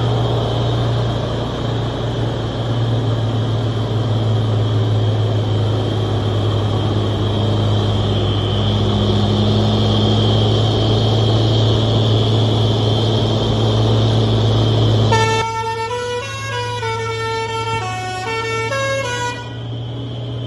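Old truck's engine running steadily with a low drone. About fifteen seconds in the drone drops away and a horn plays a quick run of stepped notes, up and down in pitch, for about four seconds.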